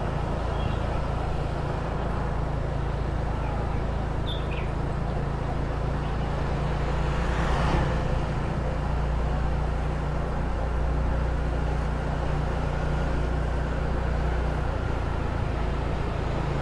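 Small motor scooter's engine running steadily on the move, under a steady rush of road noise, with a brief louder swell of noise about halfway through.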